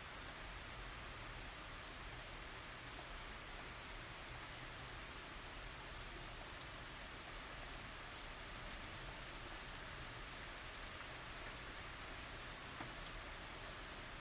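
Steady tropical rain falling, an even hiss with many small drop ticks on surfaces.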